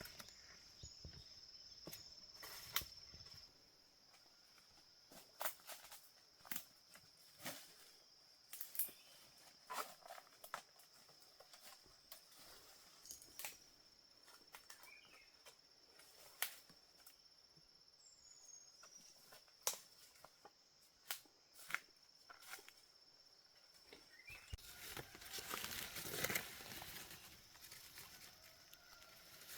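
Scattered sharp clicks and knocks over a faint, steady high-pitched hum, with a longer stretch of louder rustling near the end.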